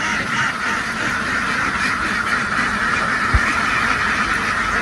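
A flock of ducks quacking in a dense, steady chorus, with a short low thump a little after three seconds in.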